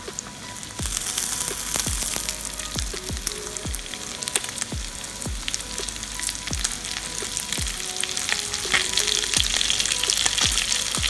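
Mutton chops sizzling as they fry in oil in a nonstick pan over a high flame. The sizzle grows louder about a second in and then holds steady.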